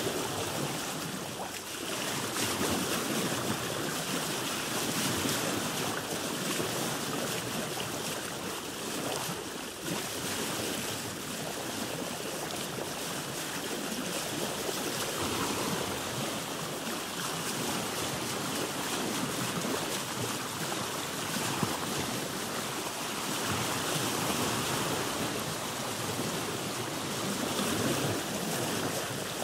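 Sea water sloshing and lapping against a boat's hull, with wind, a continuous wash that swells and eases gently.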